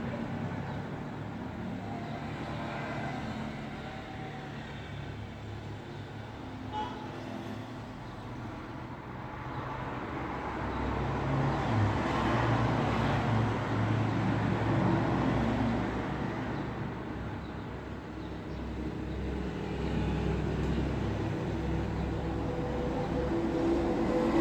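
Road traffic: a steady wash of vehicle engine and tyre noise, growing louder for several seconds midway as vehicles pass closer, then easing off.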